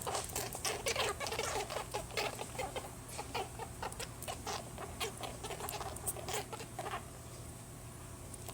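Rabbit making a rapid series of short noises, several a second, that stop about seven seconds in.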